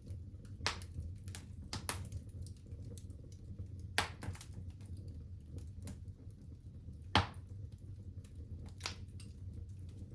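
Wood fire in a fireplace crackling: irregular sharp pops and snaps over a steady low rumble, the loudest pop about seven seconds in.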